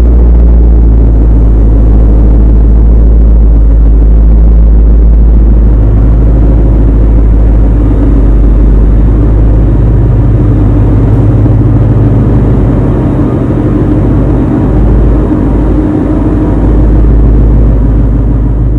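Ford Mustang GT's 5.0-litre V8 running steadily with a deep exhaust note as the car drives slowly past at low speed.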